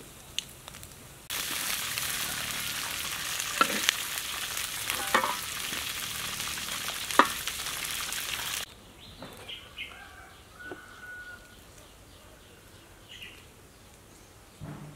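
Food frying in hot oil: a steady sizzle with sharp pops now and then. It cuts in suddenly about a second in and cuts off about nine seconds in.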